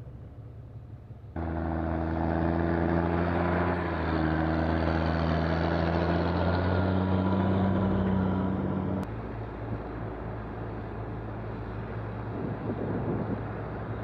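Tractor engine running, its note rising slightly before an abrupt change to a lower, rougher running sound about nine seconds in. The sound also jumps abruptly louder about a second in.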